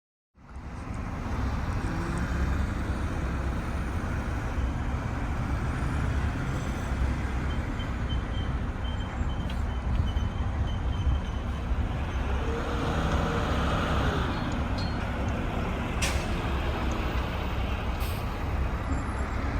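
Garbage trucks' diesel engines running steadily with a deep rumble, a rise and fall in pitch about two-thirds of the way through as a truck passes. Two short sharp clicks near the end.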